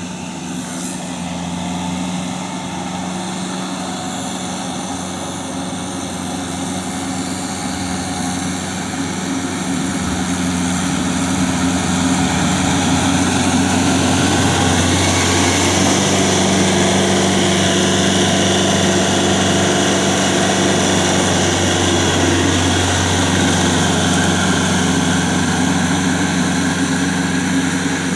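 Tractor engine running steadily, getting louder about a third of the way in.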